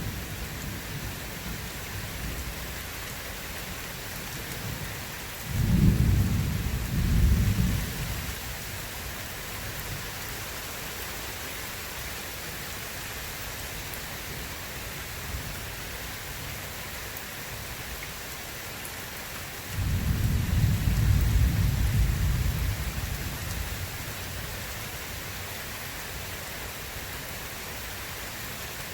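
Steady rain falling, with two deep rolls of thunder, one about five seconds in and a longer one about twenty seconds in, each fading after a few seconds.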